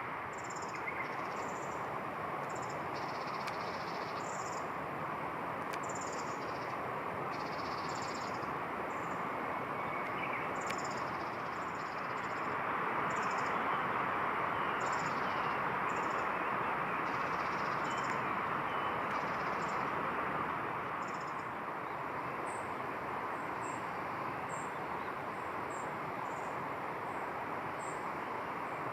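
Outdoor ambience: a steady rushing noise with short, high-pitched chirps of small animals repeating over it, about one or two a second. From about two-thirds of the way in the chirps come higher and more evenly spaced.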